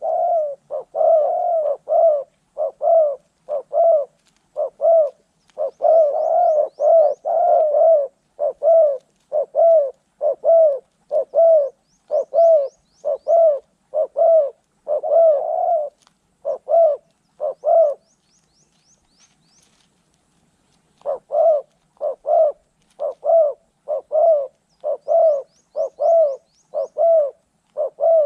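Spotted doves cooing: a long run of short, repeated coos, about one and a half a second, that breaks off for about three seconds past the middle and then resumes. A small bird's quick, faint, high chirping trills sounds a few times in the background.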